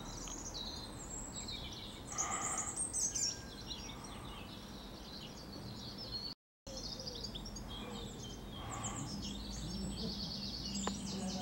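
Birds chirping and singing, over a steady low hiss of background noise; the sound cuts out for an instant about six seconds in.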